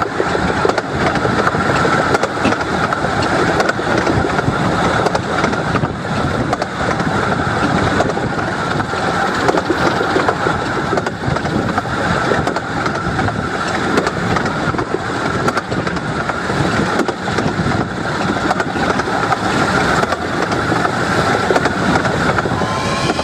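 A 15-inch gauge steam train running along the line, heard from a passenger carriage: a steady rumble of wheels on the track, with a rapid run of faint clicks.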